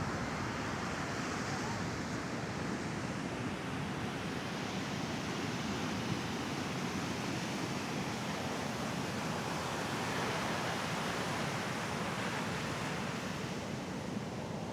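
Mediterranean sea waves washing onto a beach: a steady rushing surf that swells and eases slightly.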